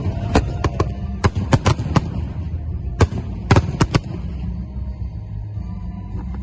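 Fireworks bursting: about a dozen sharp bangs in quick, irregular succession over the first four seconds, then they stop. A steady low rumble runs underneath.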